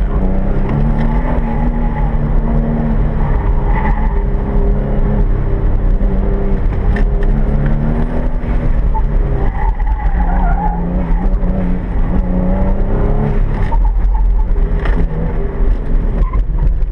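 Car engine heard from inside the cabin on a hard autocross run, its pitch rising and falling over and over as the driver accelerates and lifts between cones, with a brief tyre squeal past the middle.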